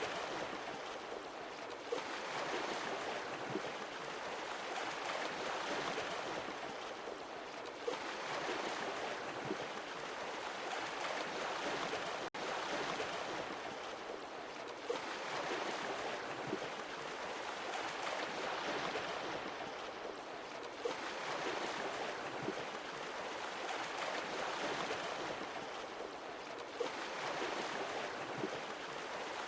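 Sea waves washing in and drawing back, a steady rush of surf that swells about every six seconds.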